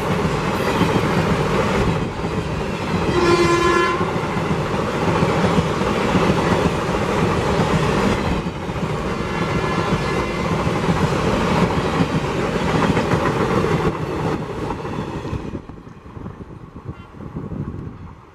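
Passenger train coaches rushing past close by, a loud steady rumble with rapid wheel clatter on the rails. About three seconds in, the WAP4 electric locomotive's horn sounds one short note. Near the end the sound drops suddenly to a fainter train rumble.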